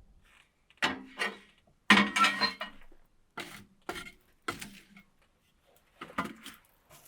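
Cookware and utensils being handled: a series of clinks and knocks, with the loudest, briefly ringing clatter about two seconds in.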